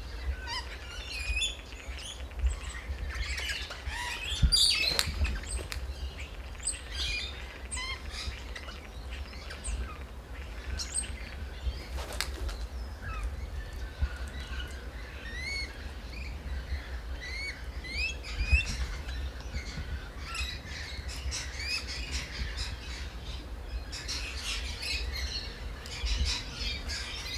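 Birds at a feeder, where an Australian magpie and crimson rosellas are contesting the food: many short rising chirps and calls throughout, with a few sharp flicks and a steady low rumble.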